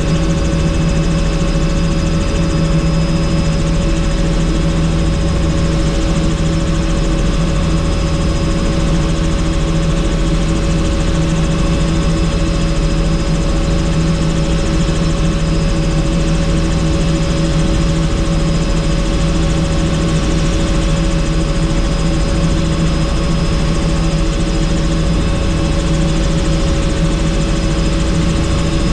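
Helicopter in flight heard from inside a doors-off cabin: steady engine and rotor drone with a constant whine over a low rumble.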